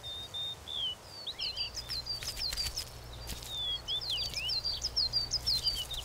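Wild birds chirping and calling in a forest: many short, high, quick notes and little trills, with a low steady rumble underneath from about a second and a half in.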